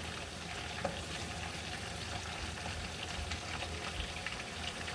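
Food frying in a pan: a steady sizzling hiss with faint scattered crackles.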